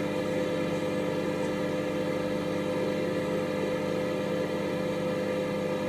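Microwave oven running with a bag of compost inside, a steady, even electrical hum with a few fixed tones.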